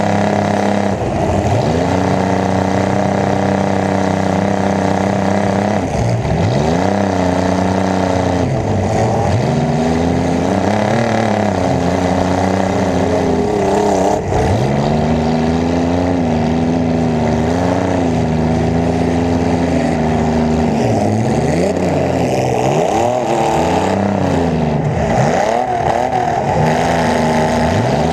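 Demolition derby car's carbureted V8 running loud and close, revving up and falling back again and again as the throttle is worked.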